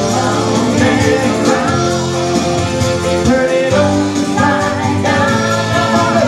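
Soul-funk band music: a melodic lead line with bending notes over sustained bass, played steadily throughout.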